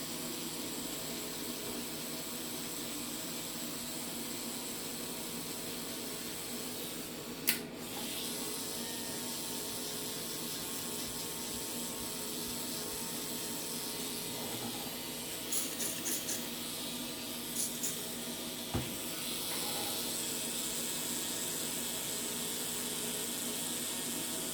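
Podiatry drill with dust extraction running steadily: a constant hiss with a faint whine. A few light clicks come through, one about a third of the way in and a small cluster past the middle.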